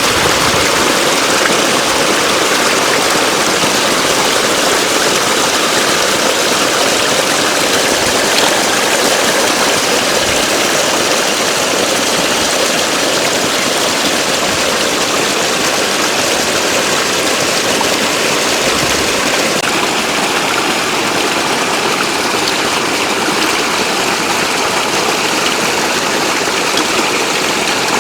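Steady rush of flowing water, an even noise that holds at the same level throughout.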